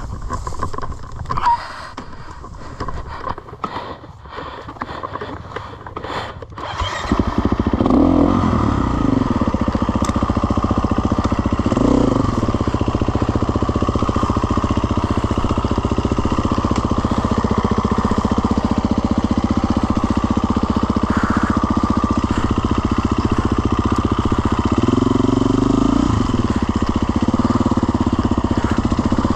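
A small engine starts about seven seconds in and then runs loudly and steadily, with a few short revs. Before it starts there are quieter, uneven clattering sounds.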